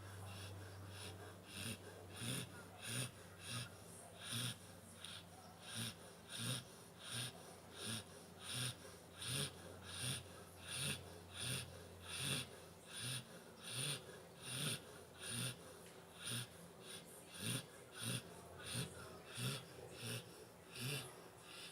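Nine-month-old Labrador retriever snoring in its sleep. Its snores come evenly, about three every two seconds.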